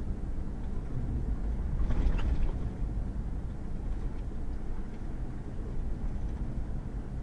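Pickup truck driving on a wet, muddy gravel road: a steady low rumble of engine and tyres, with a brief louder rush of noise about two seconds in.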